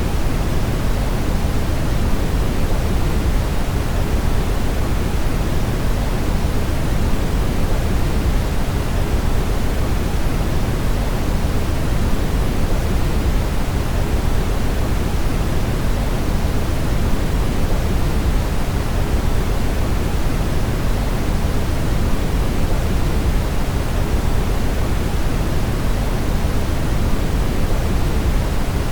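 Brown noise: a steady, unchanging rumbling hiss, heaviest in the low end and fading toward the highs.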